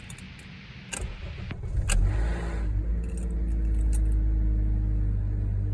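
2012 Honda Accord EX-L cold start: keys jingle and click in the ignition, then the engine catches about two seconds in with a brief grinding rattle and settles into a steady fast idle. The grinding rattle at cold start is the fault the owner is recording.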